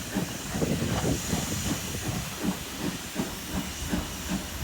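Steam locomotive hissing steam as a steam-hauled train moves out, with rumbling from the train.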